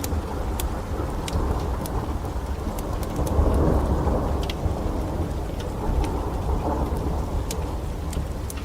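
Steady rain with a low rumble of thunder that swells about three to four seconds in. Scattered sharp crackles of a wood fire burning in a fireplace run over it.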